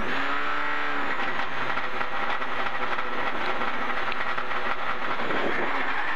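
Citroën DS3 R3T rally car's turbocharged 1.6-litre four-cylinder engine running steadily while the car stands still, heard from inside the stripped cabin.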